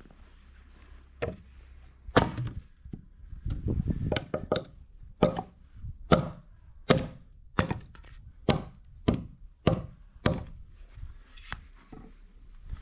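Repeated hard strikes on wood, irregular at first and then falling into a steady rhythm of about one blow every 0.7 s, ending with a last single strike.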